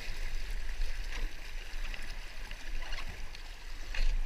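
Creek water splashing and gurgling around a kayak moving through shallow current, with a brief splash about once a second, over a steady low rumble.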